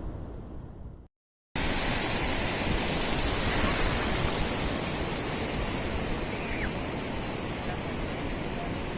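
Steady rushing hiss of sea surf on a beach, which starts abruptly after a brief dead-silent gap about a second in. Before the gap, a low rumble fades out.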